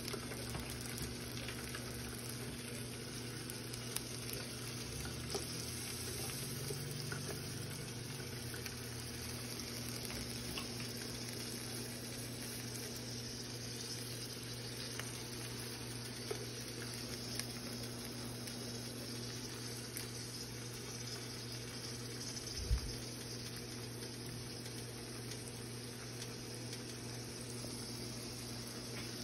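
Shrimp frying in a pan of hot oil: a steady, even sizzle as they are laid in, over a low steady hum. A single low thump about three quarters of the way through.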